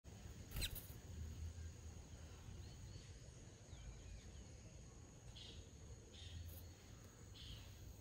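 Faint outdoor birdsong: thin chirps and squeaky notes from small birds, with three short chirps about a second apart in the second half, over a steady high-pitched whine.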